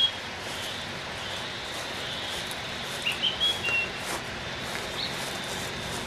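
Outdoor ambience: a steady hiss with a few short, high bird chirps, some right at the start, a cluster about three seconds in and one more about five seconds in.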